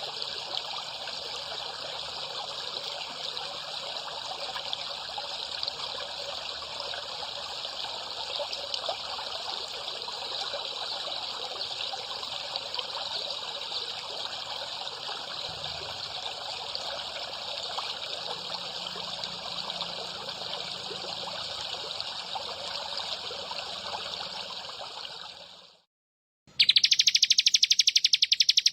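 Water trickling steadily. It fades out about 26 seconds in, and after a moment of silence a loud, very fast, even pulsing high trill starts.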